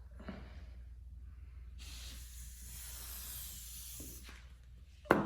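Spray can of alcantara dye hissing in a steady pass of about two and a half seconds, starting about two seconds in. Near the end comes a single sharp knock, louder than the spray.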